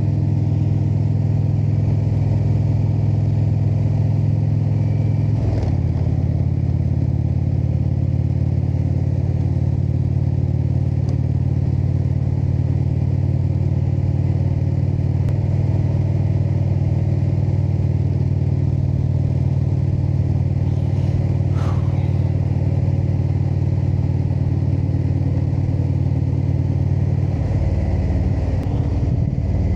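Indian V-twin cruiser motorcycle engine running steadily under way, heard from the bike. Its note changes abruptly about five seconds in, shifts again mid-way, and changes once more near the end.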